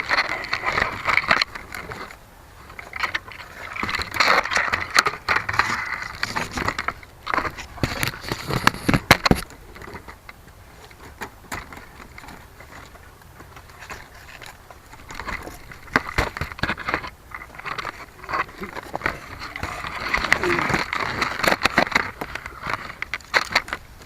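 Wind buffeting the microphone of a small 808 keychain camera on an RC plane, coming in loud swells every few seconds with sharp crackles and scraping clicks in between.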